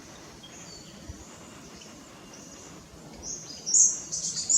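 Wild birds calling with high-pitched chirping notes over a faint, steady background hiss; the calls start about three seconds in and are loudest near the end.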